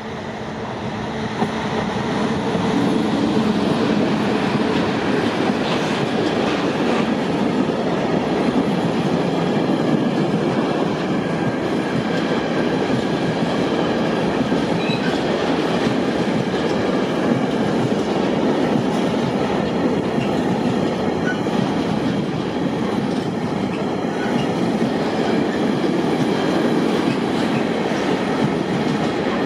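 A freight train of tank wagons rolling past close by: a steady rumble with the wheels clattering over the track. It swells over the first couple of seconds, then holds.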